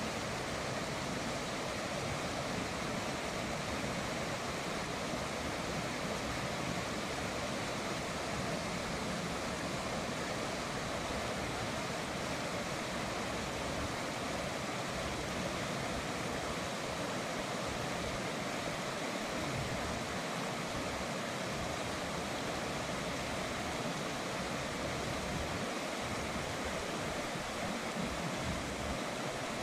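River water flowing and rushing in a steady, even wash of noise.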